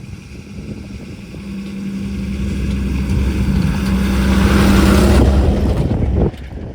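A motor vehicle's engine running as it comes closer, growing steadily louder for about five seconds, then cutting off suddenly about six seconds in.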